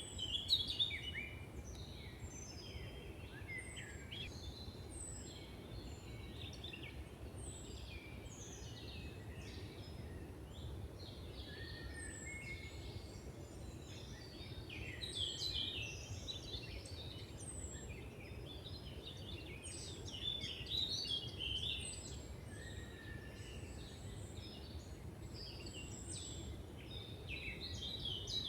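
Several songbirds singing and calling together in woodland, with a thin high note repeated every second or two among busier chirps and trills, over a steady low rumble of background noise.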